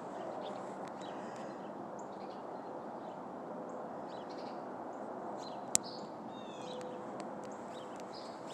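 Small birds chirping in short calls and quick falling runs over a steady rushing background noise, with one sharp click about six seconds in.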